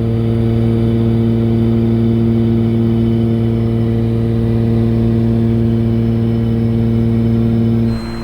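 Cabin drone of the Cessna 414A's twin piston engines and propellers in cruise: a loud, steady hum made of several steady tones. It drops off abruptly to a quieter level near the end.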